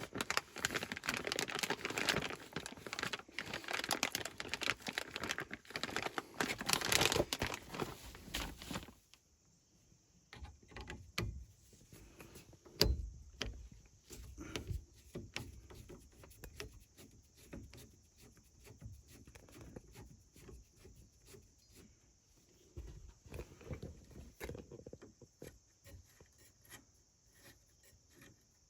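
Rustling, crinkling handling noise for about the first nine seconds, then after a sudden change, scattered light clicks and taps of hands and small parts being worked.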